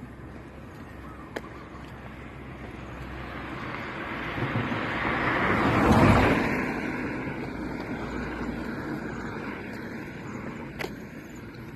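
A road vehicle passing close by: its engine and tyre noise grow louder, peak about six seconds in, then fade away.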